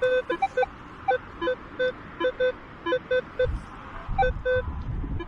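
Metal detector giving a rapid run of short beeps at a few different pitches, several a second, as it responds to targets in the ground. Wind buffets the microphone in the second half.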